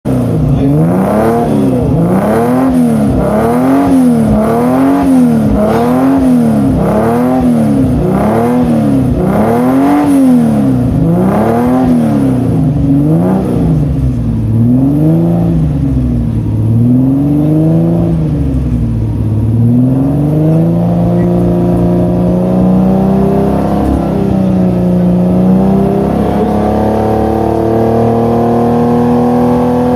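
Toyota 2000GT's straight-six engine being blipped over and over, the revs rising and falling about once a second. After about twenty seconds the revs instead climb slowly and steadily.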